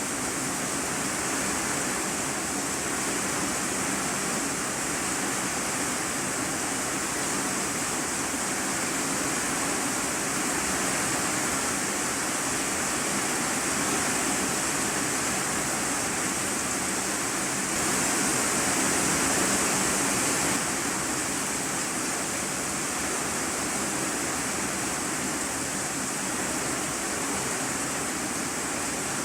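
Steady heavy rain falling on an iron-sheet roof, heard from the room beneath it. The rain grows a little louder for a few seconds about two-thirds of the way through.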